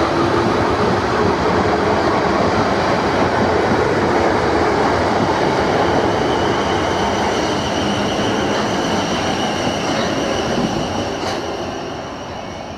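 A Siemens Desiro Class 444 electric multiple unit running past close by: steady rumble of wheels on rail with a high electric whine from the traction equipment. It fades near the end as the train moves away.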